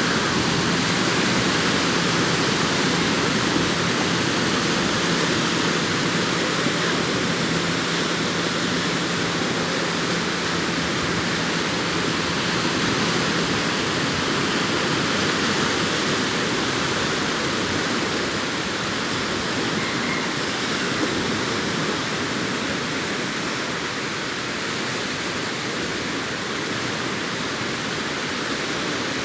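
Sea surf washing onto a beach, a steady rushing noise of waves. A faint low hum runs under it and stops about halfway through.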